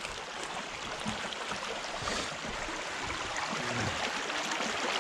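Creek water running steadily over rocks, a continuous rushing babble.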